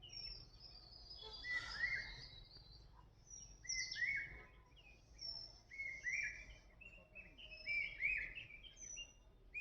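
Several small birds chirping and calling: short, high, slurred notes repeated again and again, several at once, over a faint low rumble.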